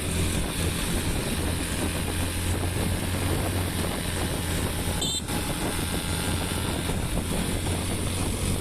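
Motorbike engine running steadily while riding, with wind rushing over the microphone; a brief dropout just over five seconds in.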